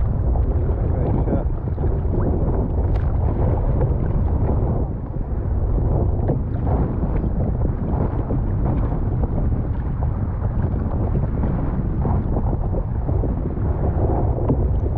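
Steady wind noise rumbling on the microphone, with sea water moving around a fishing kayak.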